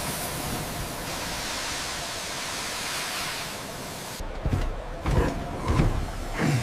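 A steady rushing noise, then several short low thumps in the last two seconds.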